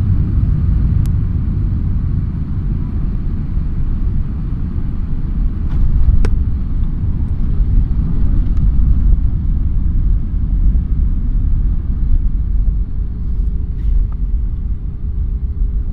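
Steady low rumble inside an Airbus airliner's cabin as it rolls on the ground just after landing. A faint steady hum joins about ten seconds in.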